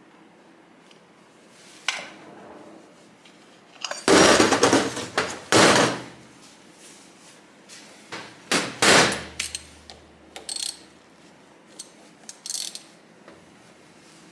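Metal tools and parts clattering and knocking on a workbench, in scattered sharp clicks with a loud rattling stretch about four to six seconds in and a few heavier clanks near nine seconds.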